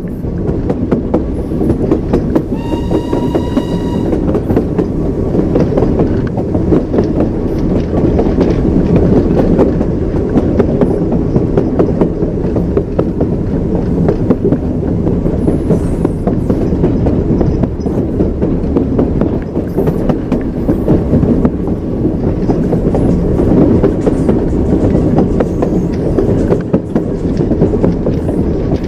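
A moving train: a steady low rumble with the clickety-clack of wheels over rail joints. About three seconds in, the train's horn sounds once, a high pitched note lasting just over a second.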